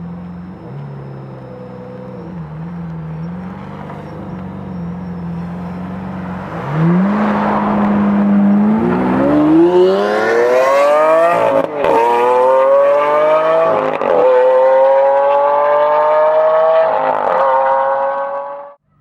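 Supercar engine and exhaust idling, then accelerating hard. The pitch climbs and drops back at each of several quick upshifts, then the sound cuts off suddenly near the end.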